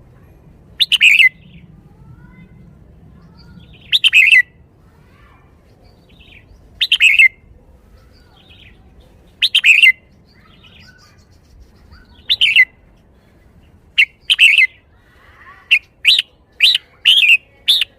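Red-whiskered bulbul singing short, loud, bright phrases, one about every three seconds, then coming in quick succession over the last few seconds.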